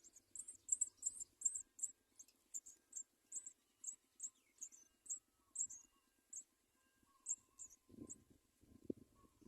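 House sparrow nestlings begging: faint, high, thin chirps repeated unevenly, about two to three a second. A low rustle comes in near the end.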